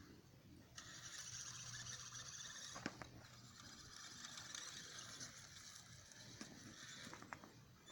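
Faint, steady high-pitched whine of a radio-controlled model truck's electric drive motor and gearbox as it drives over rough ground, with a few sharp clicks and knocks.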